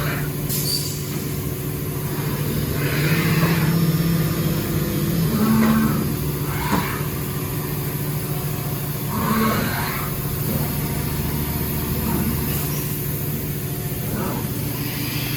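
Fadal 2216 CNC vertical machining center running: a steady hum with short whirring bursts every few seconds.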